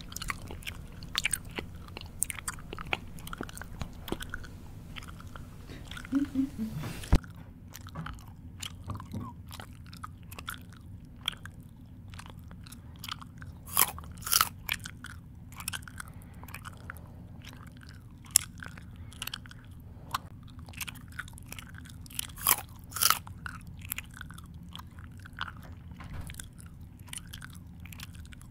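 Close-up chewing: a mouth eating with irregular wet clicks and crunches, a few of them louder. About seven seconds in, the background hiss drops suddenly.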